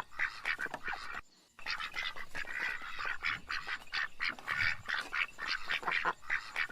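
Ducks quacking in a flock: many short, rapid, raspy calls overlapping, with a brief break a little over a second in.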